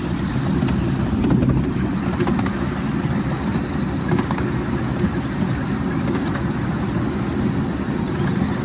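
Steady low rumble of a miniature passenger railway train running along its track, heard from on board.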